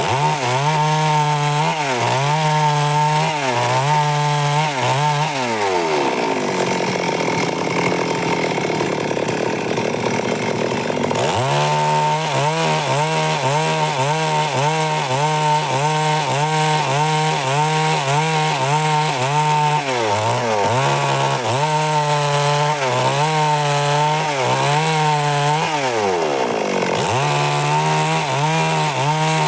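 Stihl MS 382 two-stroke chainsaw running at high revs while cutting wood, its engine pitch dipping and recovering over and over as the chain takes load. For several seconds in the first half the steady engine tone gives way to a rougher, rasping sound.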